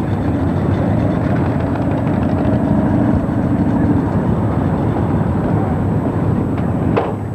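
Many motorcycle engines running together in a steady low rumble, with one short sharp sound near the end.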